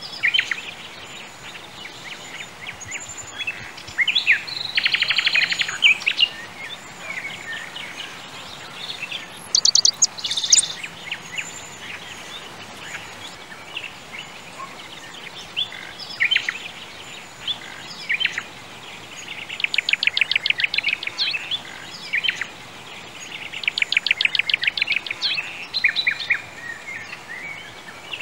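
Birdsong ambience: birds chirping over a steady background hiss, with rapid trills of quickly repeated notes about four to six seconds in, around ten seconds, around twenty seconds and around twenty-four seconds.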